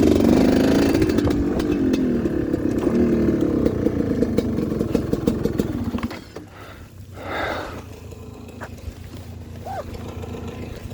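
Dirt bike engine running loud and close, its pitch wavering up and down with the throttle. It drops away suddenly about six seconds in, leaving a much fainter sound that swells briefly about a second and a half later.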